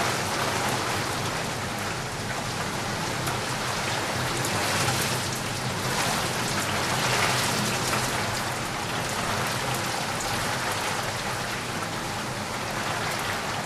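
Steady rain falling on a surface, a dense hiss of drops with many fine individual ticks, swelling and easing gently in loudness.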